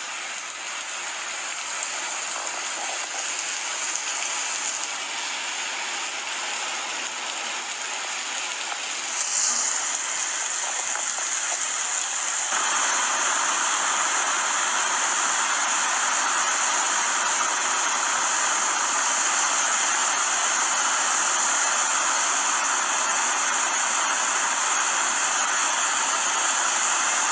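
Floodwater rushing and pouring, a steady hiss of water that jumps louder about twelve seconds in.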